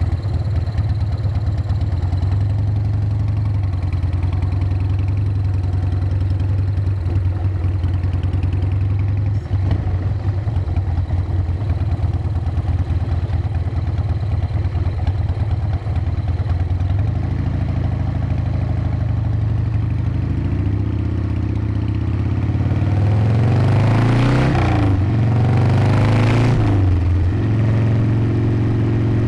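Harley-Davidson V-twin motorcycle engine running at a steady cruise. From about 21 seconds in, its note slides up and down and grows a little louder for several seconds as the bike accelerates, then settles into a steady, higher-pitched run.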